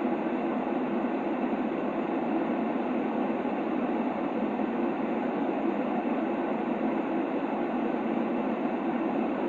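Steady white-noise track for baby sleep: an even, unbroken rushing hiss, weighted low and dull, with little high-frequency sizzle and no change in level.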